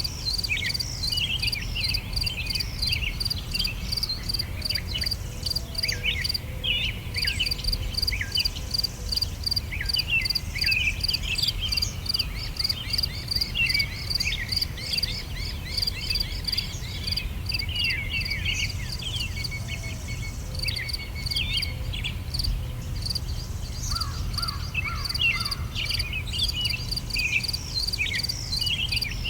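Several songbirds chirping and singing in short phrases over a fast, even insect trill that stops briefly a few times, with a steady low rumble underneath.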